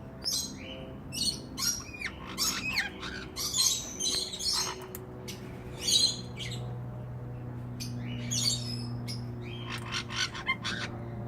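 Parrot calls: short harsh squawks and chirps in quick runs, a few with rising whistled notes, pausing for about two seconds in the middle, over a low steady hum.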